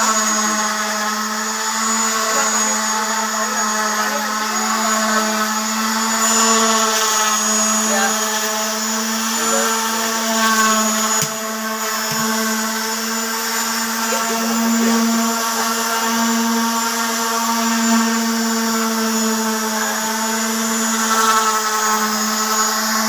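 Electric power tool running at a constant speed: a steady pitched whine that wavers only slightly.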